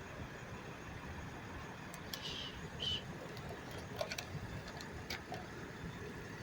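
Garbage truck engine running as a low, steady rumble, with two short high squeaks a little after two seconds in and a few sharp clicks about four and five seconds in.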